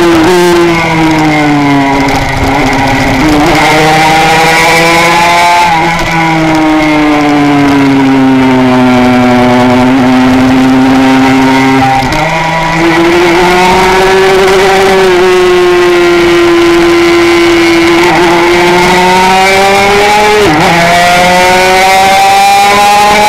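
Onboard sound of a Honda RS125's single-cylinder two-stroke engine at racing speed, over steady wind rush. The engine pitch falls in the first few seconds and again for several seconds from about six seconds in, as the bike slows. It then jumps up and climbs under hard acceleration from about halfway, with a brief dip near the end.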